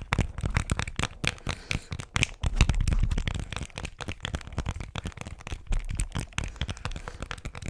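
Rapid, irregular crackling and clicking from an object handled close to the microphone, used as an ASMR trigger.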